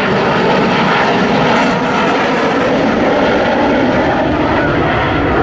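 Avro Vulcan jet bomber flying past at an airshow, its four Rolls-Royce Olympus jet engines making a loud, steady rushing noise.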